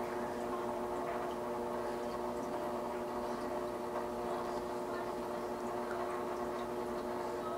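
Steady hum of a water pump with several level tones, and water trickling and dripping with small scattered ticks.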